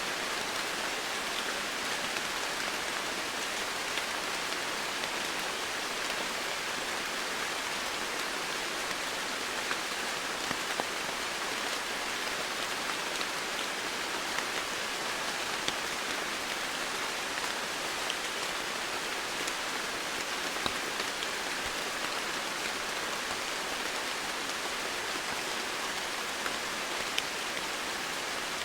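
Steady rain falling on foliage and surfaces, an even hiss with scattered individual drops ticking through it.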